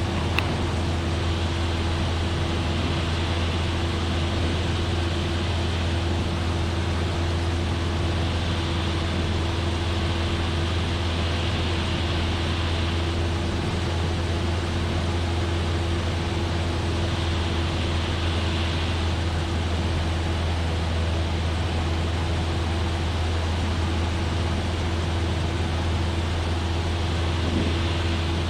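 Cessna 172F's Continental O-300 six-cylinder engine and propeller droning steadily in cruise, heard from inside the cabin as a constant low hum under a wash of airflow hiss.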